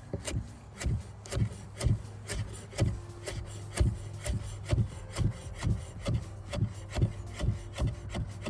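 Kitchen knife chopping fresh dill on a cutting board, steady strokes about two a second.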